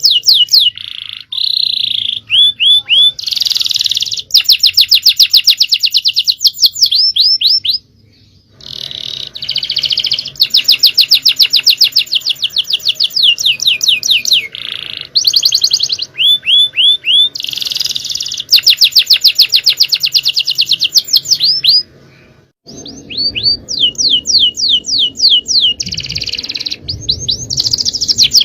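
Male domestic canary singing in long, fast, high trills and rolls of rapidly repeated notes, with each phrase changing speed and pitch. The song breaks off briefly twice.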